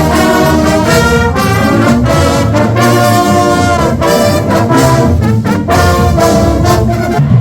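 Marching band playing: brass (trombones and trumpets) carries the tune in loud chord phrases over a heavy bass line.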